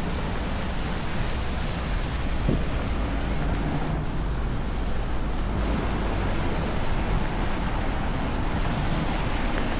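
Steady heavy rain falling, with city traffic noise underneath.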